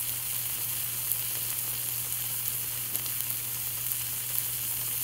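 Grilled cheese sandwich frying in butter in a pan: a steady sizzle with fine crackles.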